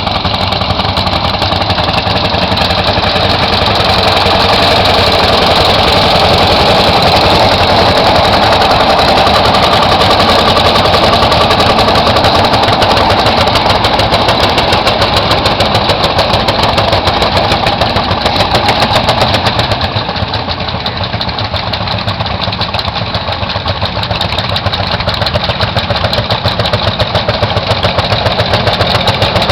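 Tractor engine running steadily, with an even firing pulse; it grows a little quieter for a few seconds about two-thirds of the way through, then picks back up.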